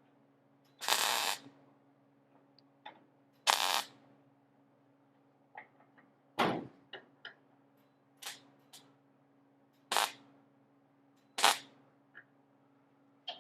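Sheet-metal work on a car body: two short crackling bursts in the first four seconds, then about six sharp clicks and knocks spread a second or two apart, over a faint steady low hum.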